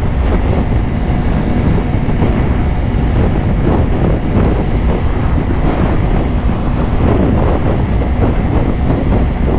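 Strong wind buffeting the microphone while riding a 2024 Kawasaki Ninja 500, with the bike's parallel-twin engine running steadily underneath.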